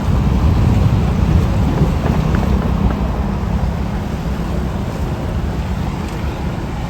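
A large road vehicle's engine rumbling close by, loudest in the first couple of seconds and then slowly fading, with wind buffeting the microphone.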